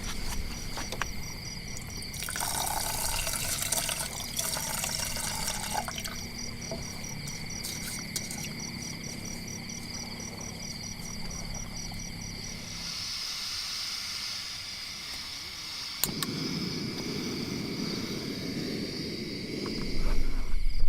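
Water trickling and pouring in spells, over a steady high-pitched chirping that stops a little over halfway through.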